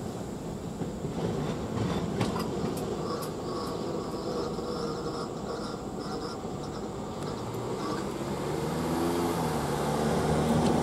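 Freight train's last cars rolling slowly away over the rails, with a few sharp clicks from the wheels about two to three seconds in. Near the end a pickup truck's engine joins in, rising in pitch as it pulls away across the crossing.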